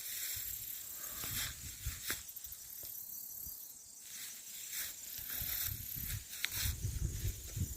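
Footsteps rustling and crunching through dry woodland leaf litter, pausing for about a second midway and then going on, over a steady high-pitched drone of insects.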